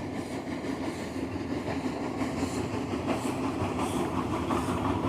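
Model freight train rolling along the layout: a steady rumble with a light wheel clatter.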